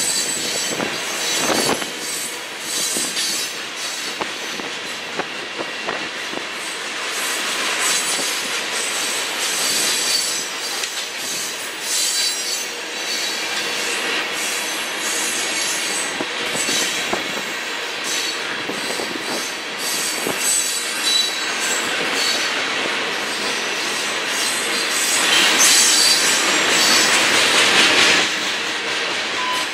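Freight train cars rolling past, wheels clicking over rail joints, with high-pitched metallic wheel squeal. A little louder near the end.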